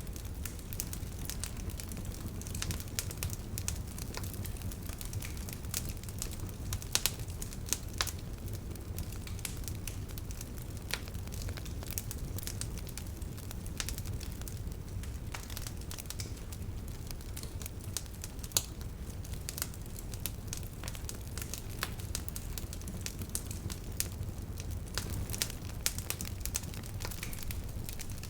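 Wood campfire crackling: irregular sharp pops and snaps, a few of them louder, over a steady low rumble.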